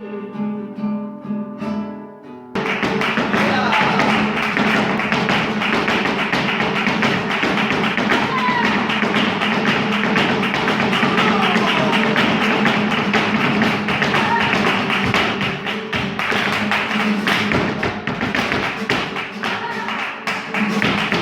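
Flamenco guitar playing a taranto, with strummed chords. About two and a half seconds in, it is suddenly joined by dense, rapid percussive strikes, typical of a dancer's stamping footwork, which continue over the guitar.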